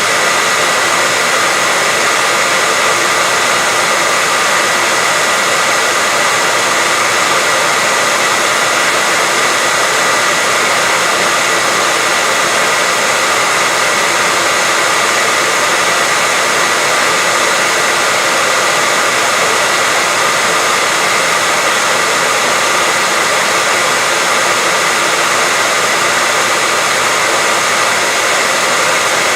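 Continuous white noise: a loud, even hiss that does not change, bright and with little low rumble, with a faint steady tone running through it.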